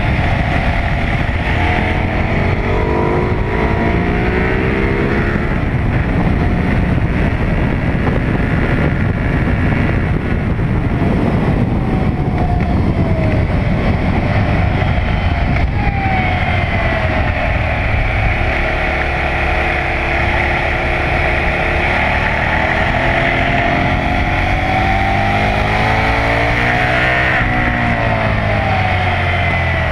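KTM 990 SMR supermoto's V-twin engine under hard track riding. Its pitch climbs as it accelerates through the gears and drops as it slows for corners, about halfway and again near the end.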